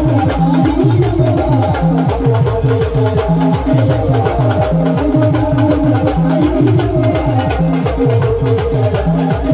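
Timli folk dance music played by a band: a fast, steady drum beat under a sustained melody line, with a regular high tick keeping time.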